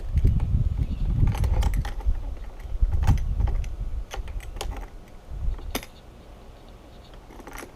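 Hands and tools working a hose onto a fitting: scattered light clicks and clatter of metal and plastic, over a low rumble in the first few seconds that fades.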